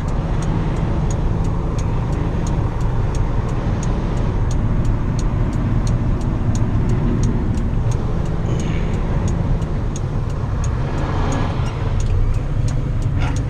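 Diesel truck engine running steadily, heard from inside the cab, with a fast regular ticking of about four clicks a second over it.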